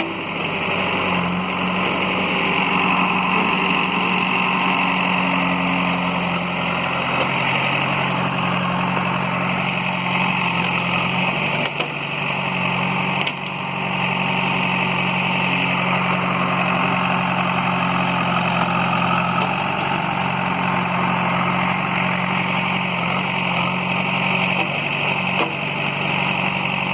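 JCB backhoe loader's diesel engine running steadily, with a brief dip about twelve seconds in.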